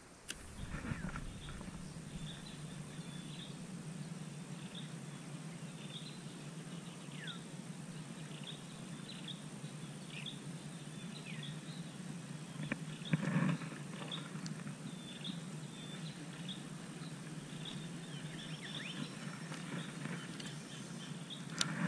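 Small birds chirping, short high calls repeated over and over with a few falling whistles, over a steady low hum. Two brief louder noises come about a second in and again around thirteen seconds.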